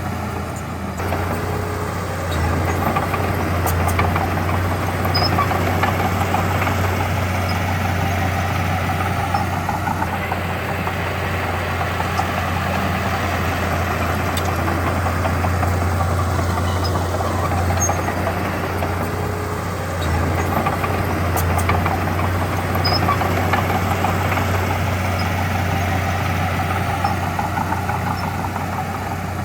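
Heavy earthmoving equipment's diesel engine running steadily with a strong low hum, swelling slightly in loudness now and then.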